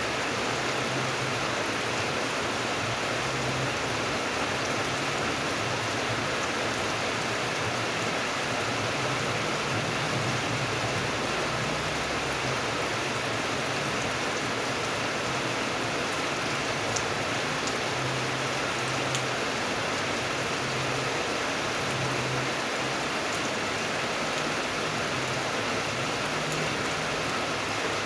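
Steady rain falling: an even, unbroken hiss with the odd faint drop tick.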